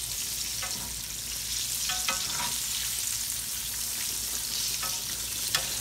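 Breaded ribeye frying in hot oil in a cast-iron skillet: a steady high sizzle, with a few faint clicks of metal tongs against the steak and pan.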